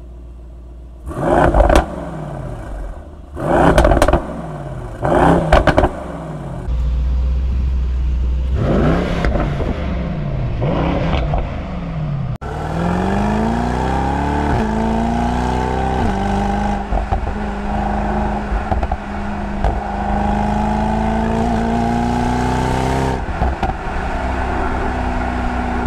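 Mercedes-AMG E63 S wagon's 4.0-litre twin-turbo V8 in Sport Plus, performance exhaust valves open: about five sharp revs, each falling back to idle. After about twelve seconds the car drives off, the engine note rising, stepping through a gear change and then holding steady under way.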